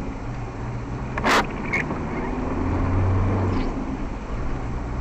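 Steady engine and road noise of a moving car, picked up by a dashcam. A brief loud burst of noise comes a little over a second in, and a fainter, shorter one follows about half a second later.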